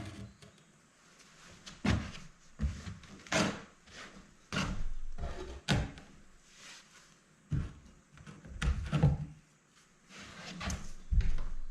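A series of irregular knocks and thuds, about ten in all, a fraction of a second to a couple of seconds apart, with one longer, noisier sound lasting about a second near the middle.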